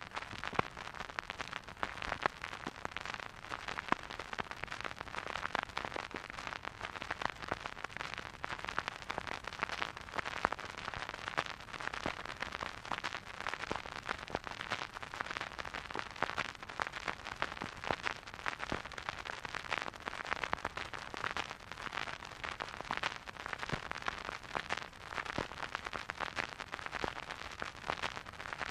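Vinyl record surface noise from a record player: a steady, dense crackle of small clicks and pops over a soft hiss.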